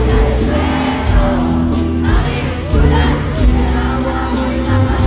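Loud amplified live concert music with a steady beat and heavy bass, a singing voice over it, and a crowd heard singing and cheering along.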